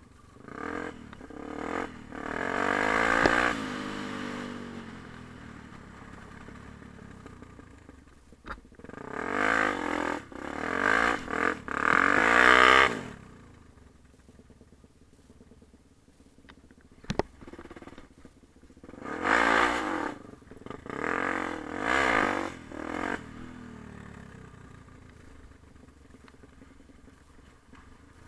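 Yamaha TT-R250 dirt bike's single-cylinder four-stroke engine revving up and dropping back in three bursts, running quietly at low revs in between. A single sharp click falls in the quiet stretch before the last burst.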